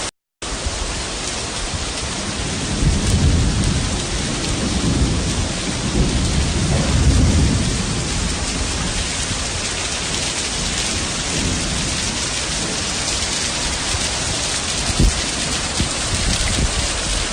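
Heavy rain pouring steadily, with a low rumble of thunder swelling and fading between about three and eight seconds in. Near the end there is a single short thump.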